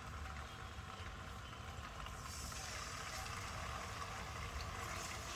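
Corn-flour-coated chicken pieces frying in hot oil in a wok, sizzling, the sizzle growing louder about two seconds in, over a steady low hum.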